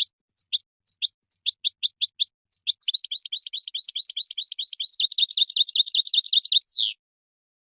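European goldfinch singing: separate quick rising chirps that speed up into a fast, rapid trill about three seconds in, ending with one downward-sweeping note.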